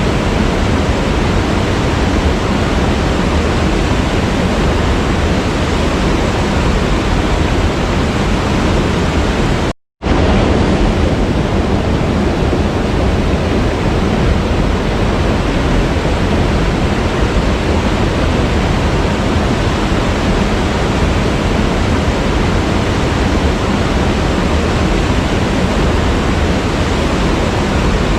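A waterfall's steady rushing of falling water, with a brief total dropout to silence about ten seconds in.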